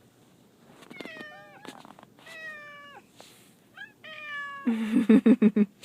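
Pet cats meowing in distress: a string of long drawn-out meows that fall in pitch at the end. Near the end comes a louder, rapidly pulsing low sound.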